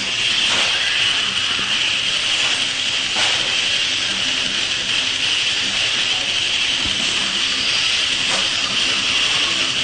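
A pack of electric 1/10-scale off-road RC stock trucks racing round the track. Their motors and drivetrains make a steady high whine, with a few faint clicks.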